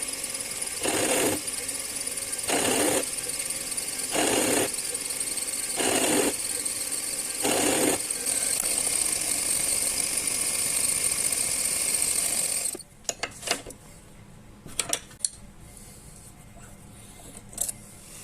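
Metal lathe running with a steady high whine, with a louder rhythmic surge about every 1.7 seconds, six times. The machine stops suddenly about 13 seconds in, followed by a few sharp clicks.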